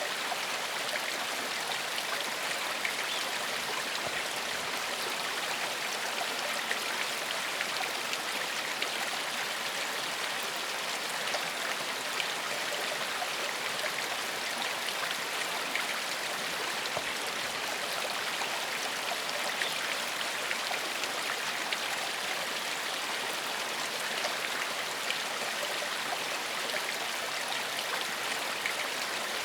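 Shallow forest stream flowing steadily over stones, a continuous even rush of water with small splashes and gurgles running through it.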